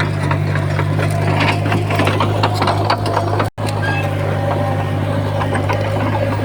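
Heavy diesel earthmoving machinery running steadily, with a constant low engine hum and a busy clatter of metal clanks and rattles over it. The sound cuts out for an instant about three and a half seconds in.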